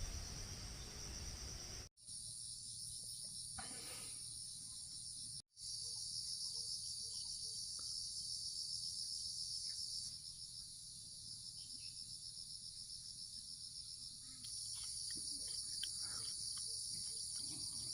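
A steady, high-pitched insect chorus with a fast pulsing trill, dropping out for an instant twice in the first six seconds and easing slightly in the middle.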